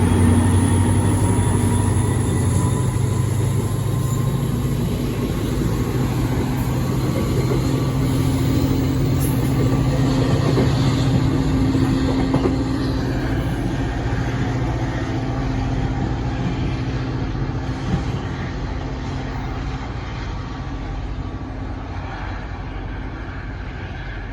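New Jersey Transit Atlantic City Line diesel train running with a steady low engine drone, slowly dying away as it moves off.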